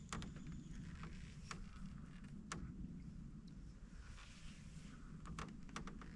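Canoe being paddled on calm water: soft splashes and drips from the paddle strokes, with about six sharp knocks and creaks from the paddle and the creaky canoe, over a steady low rumble.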